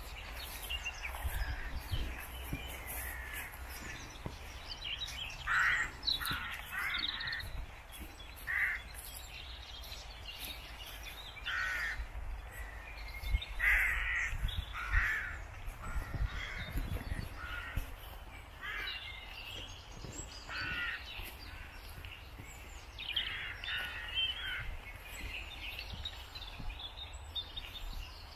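Birds calling outdoors: short calls repeated in clusters every second or so, over a steady low rumble.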